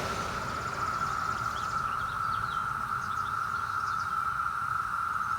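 Chorus of Brood X periodical cicadas: a loud, steady, unbroken buzzing hum held at one pitch, with a few faint short chirps above it in the middle.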